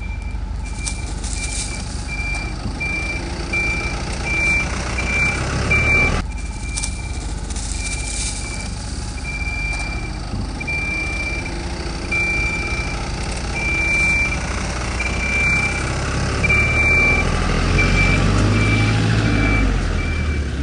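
A truck's reversing alarm sounds a steady string of evenly spaced single-tone beeps over the low running of its engine. The engine rumble grows louder near the end.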